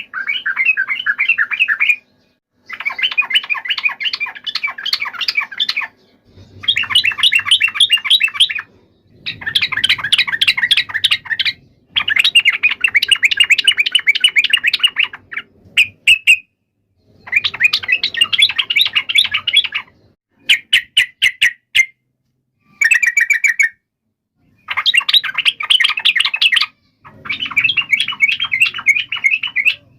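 Yellow-vented bulbul (trucukan) giving its rapid, chattering fighting song, a challenge call to rival bulbuls. It comes in about ten bursts of one to three seconds each, with short pauses between them.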